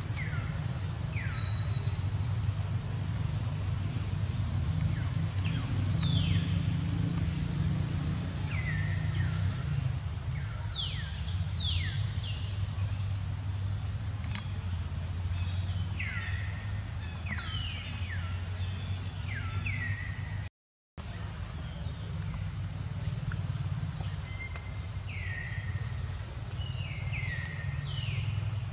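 Birds calling repeatedly, short high calls that each drop steeply in pitch, over a steady low rumble. The sound cuts out for a moment about two-thirds of the way through.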